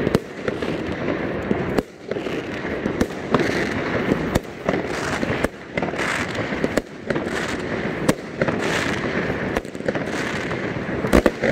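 Fireworks going off one after another: a dense crackle with many sharp bangs from bursting aerial shells and rockets, and a loud bang near the end.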